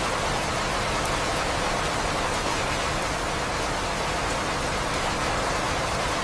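Steady rainfall, an even unbroken hiss with a few faint drop ticks.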